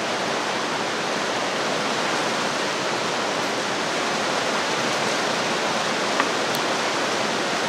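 Steady rushing noise, like a fan or moving air, with one faint click about six seconds in.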